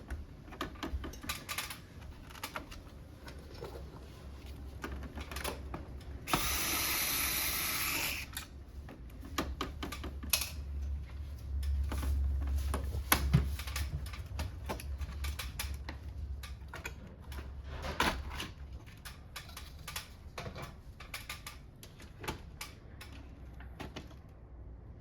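A wall-mounted air conditioner being taken apart by hand: scattered clicks and knocks of plastic covers and tools. There is a steady hiss lasting under two seconds about a quarter of the way in, and a low hum in the middle.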